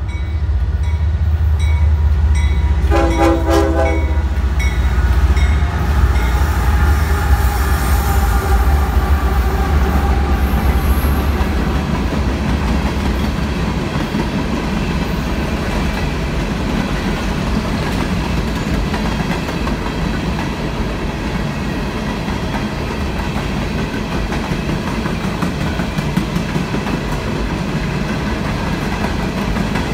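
CSX freight train passing: the diesel locomotives rumble heavily by, with a brief horn sound about three seconds in. Then a long string of coal hopper cars rolls past with steady wheel-on-rail noise and clickety-clack.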